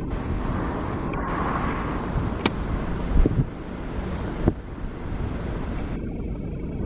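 Strong wind buffeting the microphone: a steady low rumble with a few sharp crackles.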